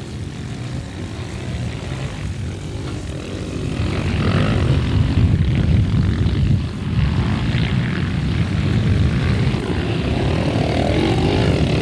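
Motocross motorcycle engine buzzing under hard throttle as the bike runs up and over a big hill, growing louder a few seconds in as it comes closer.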